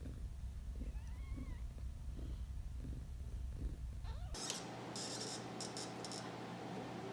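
A domestic cat purring close to the microphone: a steady low rumble that swells and eases in an even, slow rhythm with its breathing. About four seconds in, it cuts off abruptly to a hiss with a few sharp clicks.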